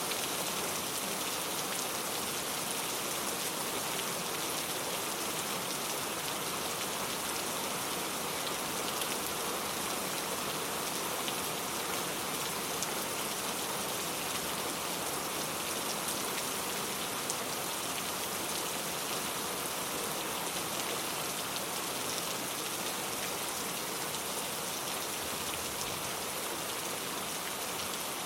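Steady rain ambience: an even, unbroken hiss of rain with faint scattered drop ticks.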